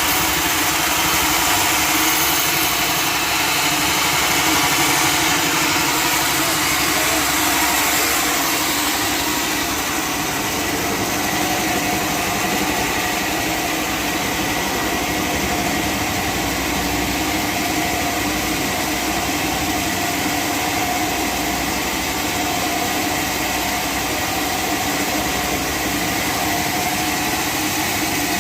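Sawmill machinery running steadily, a loud dense mechanical noise with a few steady tones, easing slightly about nine seconds in.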